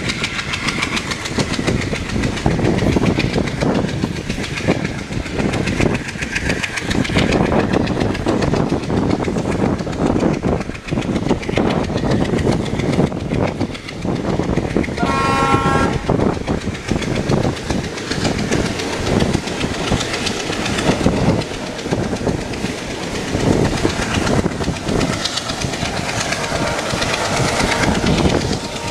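Express train running at speed, its wheels rumbling and clattering steadily on the track, heard from a coach window. About halfway through, the hauling ALCo WDM3A diesel locomotive sounds a short horn blast.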